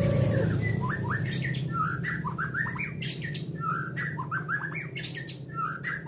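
White-rumped shama (murai batu) calling in rapid clusters of short, sharp, falling notes with dry clicks, a new burst about every second, over a steady low hum.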